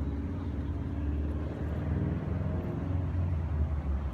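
Motor vehicle engine running in street traffic: a steady low hum whose pitch shifts slightly about two seconds in.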